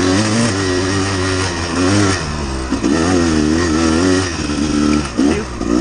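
Dirt bike engine running under way, its pitch rising and falling with the throttle as the bike is ridden on a trail.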